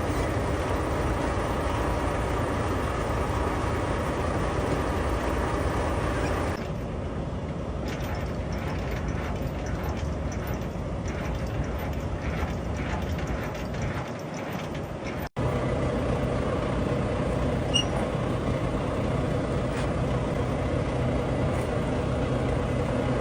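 Semi-truck's diesel engine running steadily, heard from inside the cab, with a brief dropout about two-thirds of the way through.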